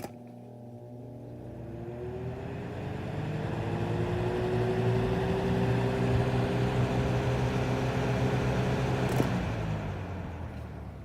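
Lasko box fan switched on with a click: its motor starts with a rising whine as the blades spin up, and the rush of air grows louder over the first few seconds. About nine seconds in a second click switches it off; the whine stops at once and the air noise fades as the blades coast down.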